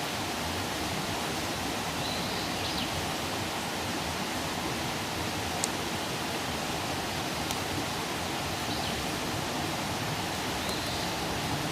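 Campfire burning with a steady hiss, broken by a few sharp pops, the loudest about halfway through.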